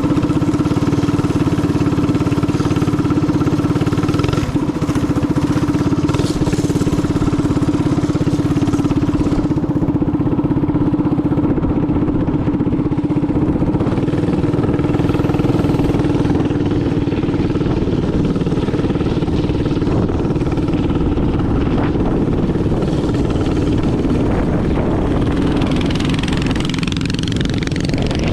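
Minibike engine running steadily at a fairly constant pitch while riding.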